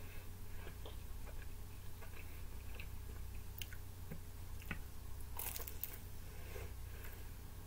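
A person biting into and chewing a slice of Domino's pizza close to the microphone, with small crunches and wet mouth clicks. There is a louder cluster of crunches about five and a half seconds in.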